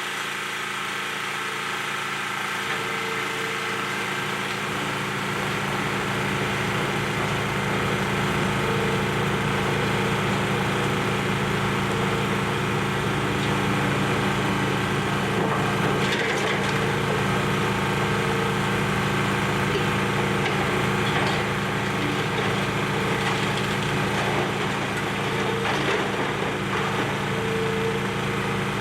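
Excavator's diesel engine running steadily while it tears into the building, with scattered crunching and splintering of breaking debris.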